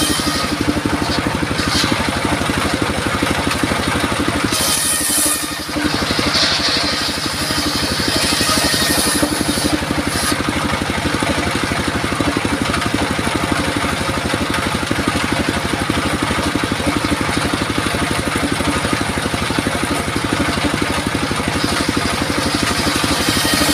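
Engine-driven circular saw rig running steadily, with a short dip in level about five seconds in and a few brief high-pitched hissing bursts soon after.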